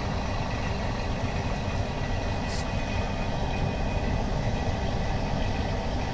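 Steady mechanical hum and rumble of an OCA vacuum laminating machine running through its laminating cycle, with a short hiss about two and a half seconds in.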